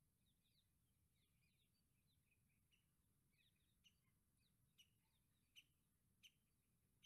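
Very faint birds chirping and twittering. In the second half a sharper chirp repeats about every three-quarters of a second.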